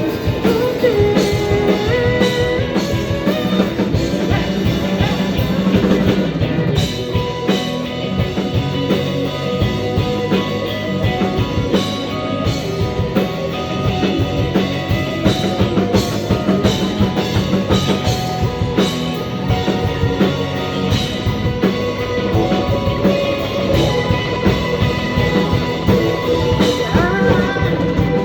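Rock band playing a song live, with a drum kit keeping a steady beat under guitars.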